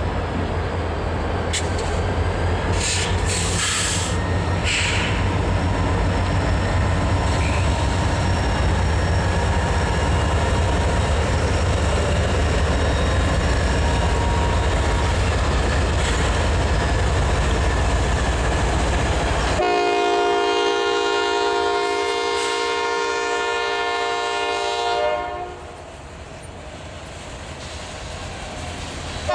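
Freight train diesel locomotives running hard as the train passes close by, a loud, steady low rumble with wheel noise. About twenty seconds in it gives way abruptly to a multi-chime locomotive air horn sounding long blasts, which fade somewhat near the end.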